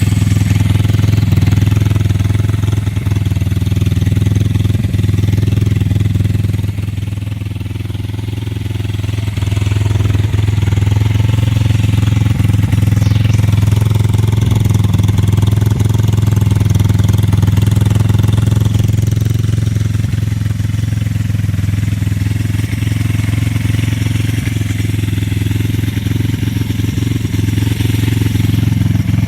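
Single-cylinder Pitster Pro engine of an FXX FX1 pit bike idling steadily after a cold start, dipping briefly in loudness about seven seconds in.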